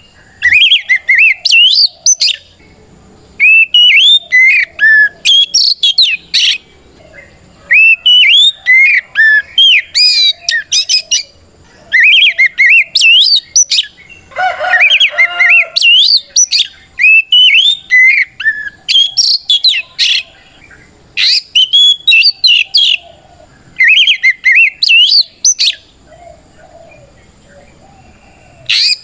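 Oriental magpie-robin (kacer) singing in loud bursts of rapid, sweeping whistled phrases with short pauses between them, in the ngeplong fighting style of a bird calling out a rival. About halfway through comes a harsher, lower burst.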